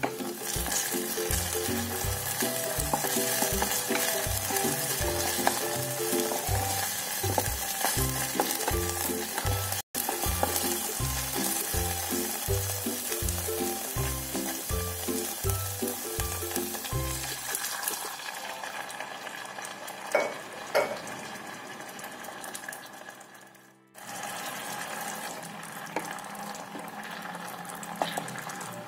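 Shallots, garlic and chilies sizzling in oil and sweet soy sauce in a non-stick electric pot, stirred with a wooden spatula that knocks against the pan a couple of times. Background music with a steady beat plays over the first two-thirds, then stops. After a brief break near the end a quieter hiss continues.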